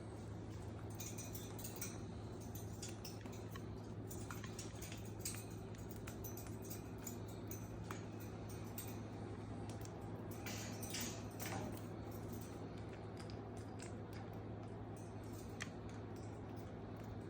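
Sun conure moving about and playing, making scattered light clicks, taps and rustles, busiest about a second in and again around ten to twelve seconds in, over a steady low hum.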